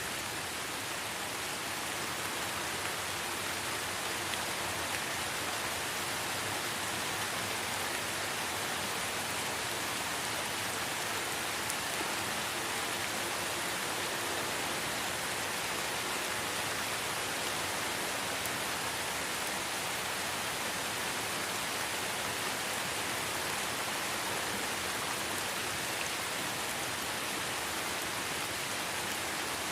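Steady light rain falling in a forest, an even hiss of drops on leaves and ground.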